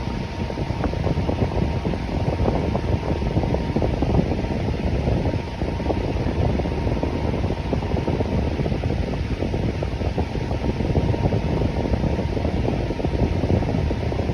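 Electric fan running steadily: an even, low whooshing rush of air with a faint steady hum on top.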